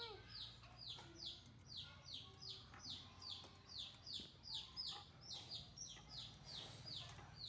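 Faint bird calls: a steady run of short falling chirps, about three a second, with a few softer calls lower in pitch.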